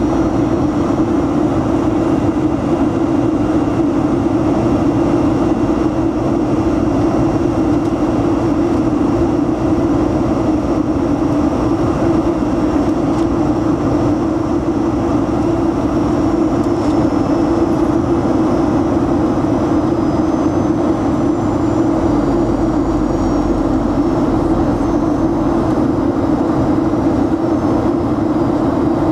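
Jet airliner cabin noise heard from inside the passenger cabin: a steady drone of engines and rushing air with a strong low hum.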